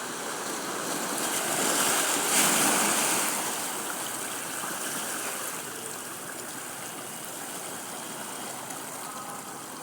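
Sea waves breaking on a beach: the surf swells to a peak about two and a half seconds in, then fades back to a steady wash.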